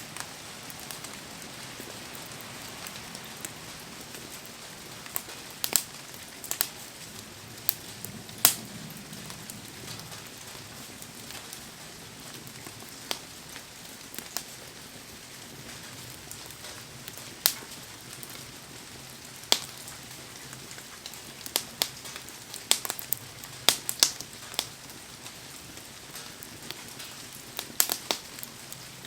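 Wood fire crackling, with sharp irregular pops, in a clump of several about three quarters of the way through, over the steady hiss of heavy rain.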